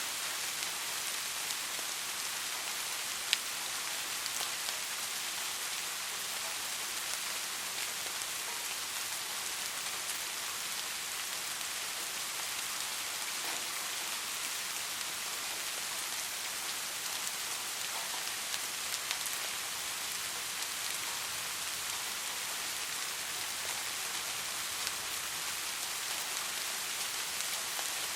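Steady soft rain falling, an even hiss with scattered individual drops tapping close by, one sharper drop about three seconds in.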